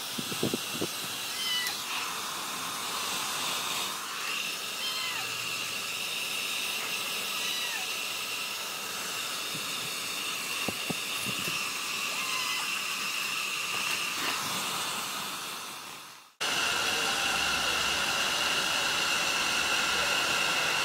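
A hair dryer running with a steady hiss and high whine, while a cat meows several times over it. After a sudden cut about three-quarters of the way through, the dryer is heard louder.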